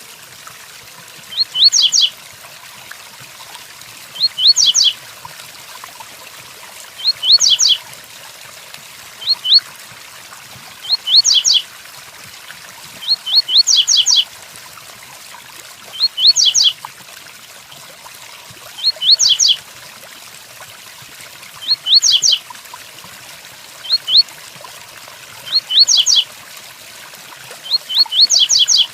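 Double-collared seedeater (coleiro) singing its 'tui tuí' song: short phrases of a few quick, high rising notes, repeated every two to two and a half seconds. Steady rain hisses underneath.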